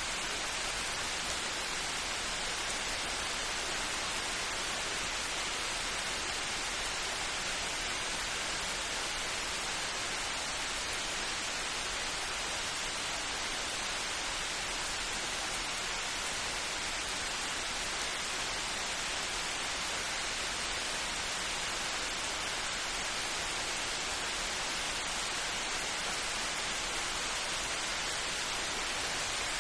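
Steady rain falling in an even hiss, with no thunder.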